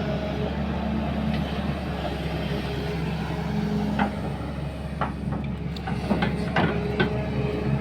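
Excavator's diesel engine running steadily while digging, with a series of short sharp knocks and clanks from about four seconds in.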